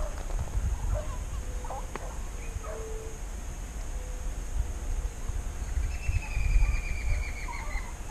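A bird gives a rapid trill about two seconds long, falling slightly in pitch, near the end. Under it is a low rumble of wind and movement on the microphone, with a few faint short calls earlier on.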